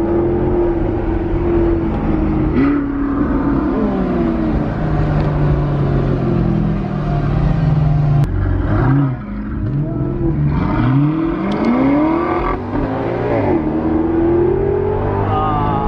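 Car engines revving and accelerating hard, their pitch climbing and dropping back again and again, with more than one engine heard at once in the second half.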